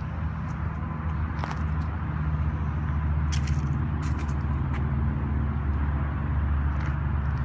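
A truck engine running steadily, with a few sharp clicks over it.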